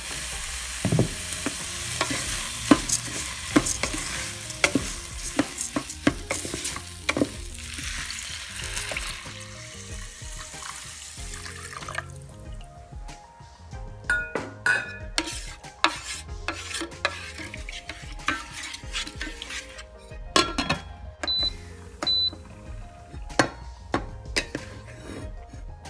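Rice and cumin sizzling in hot oil in a rice cooker pot while a wooden spatula stirs and scrapes, with frequent sharp knocks against the pot. About halfway through the sizzling cuts off suddenly, leaving scattered clicks and scrapes of the utensil over soft background music.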